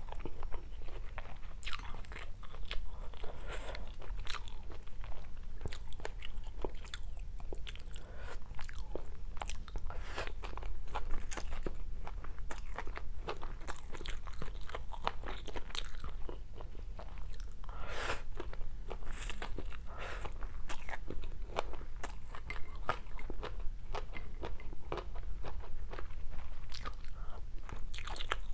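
Close-miked eating of stir-fried rice vermicelli and fried tofu: a steady run of small clicks and crunches from chewing and biting, one louder cluster about two-thirds of the way through.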